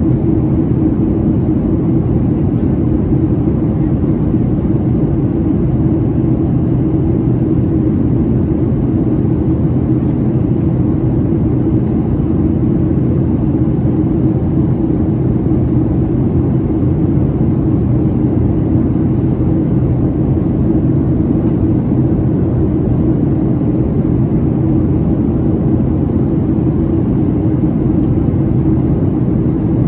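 Steady cabin noise inside a Boeing 737-700 during descent: a constant rush of airflow and engine drone with a low hum, without change.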